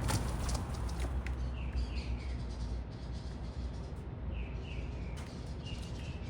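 Small birds at a feeder chirping in short falling notes, in runs of two or three, over a steady low rumble of city traffic. A few sharp clicks come in the first second or so.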